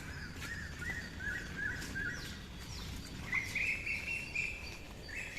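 Bird chirping: a run of short repeated notes, then a longer, higher trilled phrase a little past halfway that starts again near the end.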